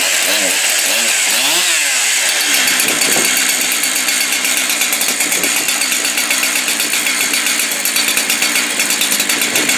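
Two-stroke chainsaw that has just restarted in a cold-weather restart test, running. It revs up and down a few times in the first couple of seconds, then runs steadily.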